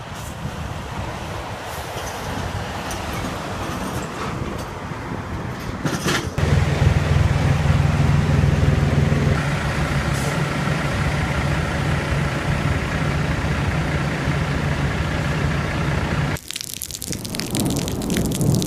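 Heavy truck running, a steady low engine hum over road noise. The sound changes abruptly about six seconds in, when the hum grows louder, and again about two seconds before the end.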